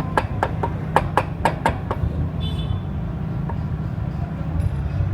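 A quick run of sharp taps, about four a second, that stops about two seconds in, over a steady low hum.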